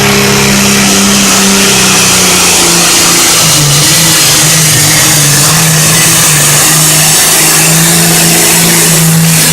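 John Deere Super Farm class pulling tractor's engine running at full throttle under load, loud and steady, its note stepping down slightly about three seconds in.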